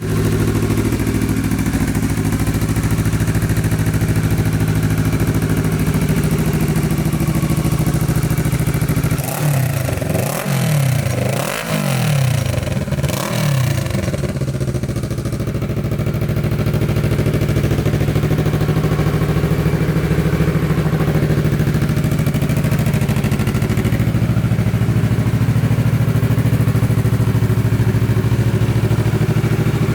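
Kawasaki ER-6f's 650 cc parallel-twin engine idling steadily, blipped up and down in a few quick revs about ten seconds in, then settling back to idle.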